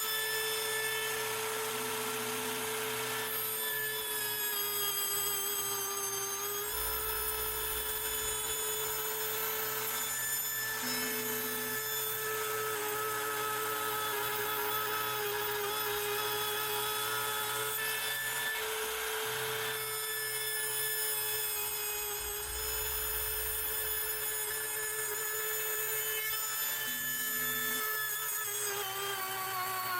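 CNC router spindle spinning a fly-cutter surfacing wheel across a mahogany slab, a steady high whine. Its pitch steps slightly as the machine moves, with two stretches of low rumble as the cutter bites harder.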